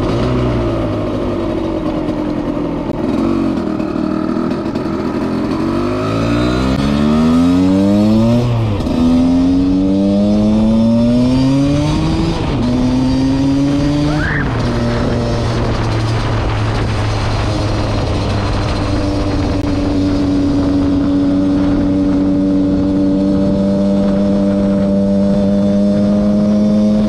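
Husqvarna SM 125 two-stroke single-cylinder engine under way. Its revs rise and fall back several times in the first half, then hold a steady note.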